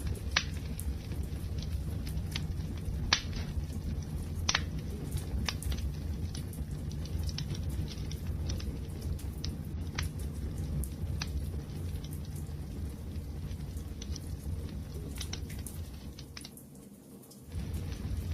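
Wood fire crackling: irregular sharp pops and snaps over a steady low rumble of flame. Near the end the sound drops away for about a second, then comes back.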